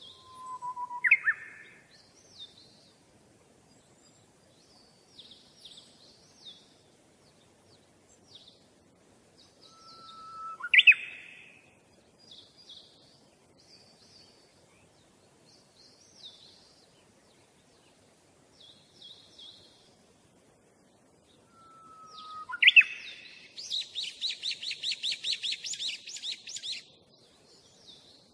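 Birdsong: many short high chirps, with three louder upward-sweeping calls about ten seconds apart. The last call runs into a fast trill lasting about three seconds.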